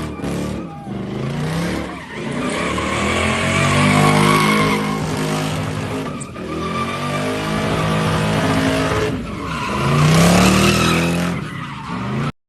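Lexus SC400's V8 through an aftermarket exhaust, revved hard and rising and falling again and again, with tyres squealing as the car is driven sideways.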